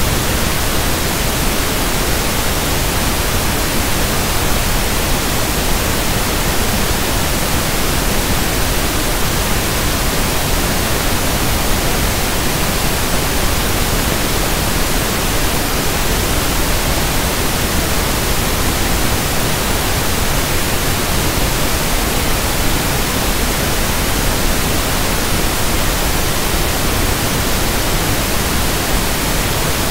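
Steady synthetic pink noise (1/f noise): an even, unbroken hiss spread across all pitches, with no changes.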